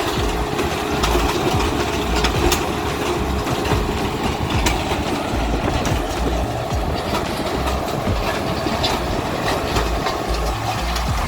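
Tractor engine running steadily under a stream of irregular metallic clanks and knocks, the sound of the tractor working its auger in the ground.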